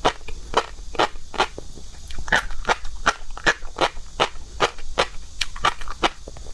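Close-miked crunchy chewing of seafood, sharp crisp crunches about three times a second.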